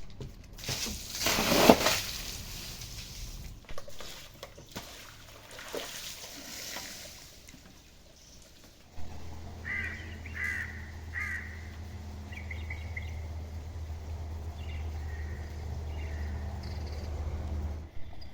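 A crow cawing three times in quick succession about ten seconds in, with fainter calls after, over a steady low hum. Before that, several seconds of irregular rushing, splashing-like noise, loudest a second or two in.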